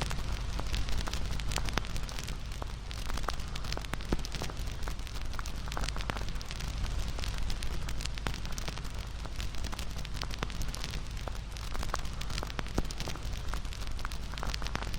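Wood fire burning with steady crackling: many sharp, irregular pops and snaps over a soft hiss and low rumble of the flames.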